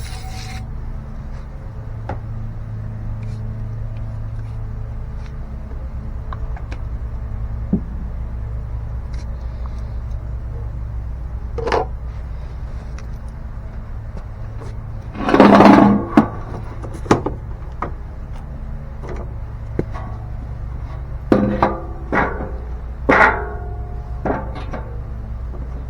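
Tools and metal parts being handled: scattered knocks and clicks, one louder clatter about halfway through and a run of several more near the end, over a steady low hum.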